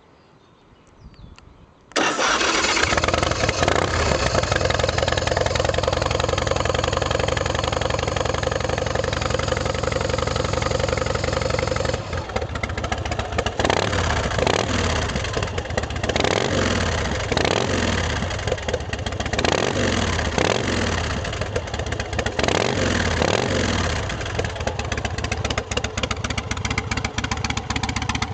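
Big Dog K9 chopper's carbureted 117 cubic inch S&S V-twin, through a Vance & Hines exhaust, starting about two seconds in and running at a steady idle. From about twelve seconds in it is revved in a series of short throttle blips, then drops back to idle near the end.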